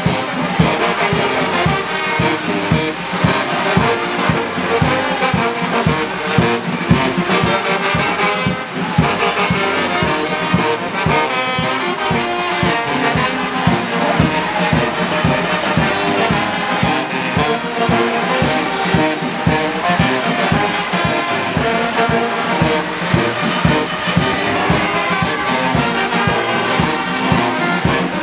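Brass band music with trombones and trumpets, playing over a steady beat.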